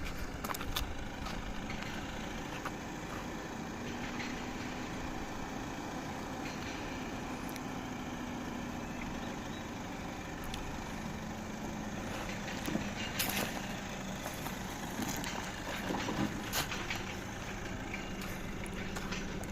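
SAIC Maxus pickup truck's engine running steadily under load on a steep climb. Its hum drops slightly in pitch about halfway through, and a few sharp knocks come in the second half.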